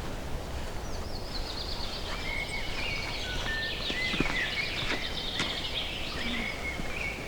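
A songbird singing a long, varied song of quick trills and whistles, starting about a second in, over a steady low outdoor rumble, with a few short clicks.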